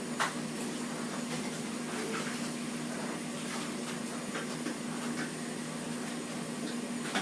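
Steady background hiss with a low hum, broken by a few faint light taps spaced a second or so apart.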